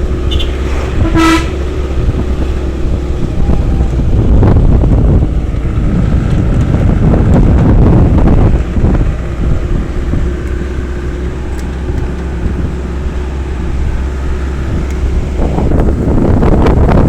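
Vehicle running steadily on the road, with one short horn toot about a second in and the rushing noise swelling and easing a few times.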